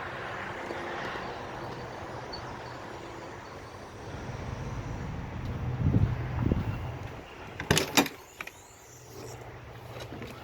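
A steady outdoor rumble and hiss, then a couple of heavy thuds and two sharp clicks of the motorhome's entry door. After the clicks the background drops to the quieter sound of a small interior.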